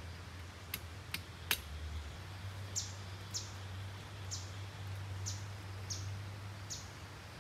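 A bird repeats a short, high call six times, each note sliding quickly downward, about once a second. Three sharp clicks come before it, the third the loudest, over a low steady hum.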